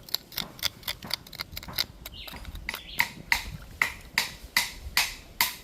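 A knife chopping raw chicken on a cutting board in a steady run of sharp knocks. The strokes come quick and light at first, then louder at about two to three a second from about halfway through.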